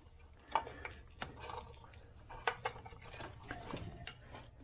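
Scattered light clicks and rustling as a car wiring harness is handled and routed by hand, with a few sharp ticks.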